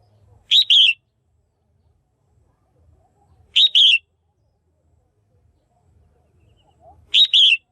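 Female red-whiskered bulbul calling: a short, loud two-note call, given three times about three and a half seconds apart.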